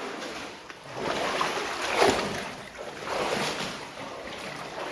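Water sloshing and splashing as people wade through a flooded mine passage, in repeated surges, the loudest about two seconds in.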